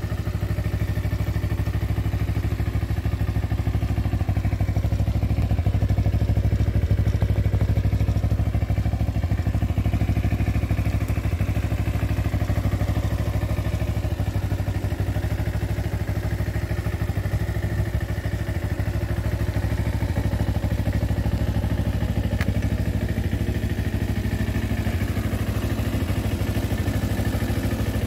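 Kawasaki EX250 motorcycle's parallel-twin engine idling steadily.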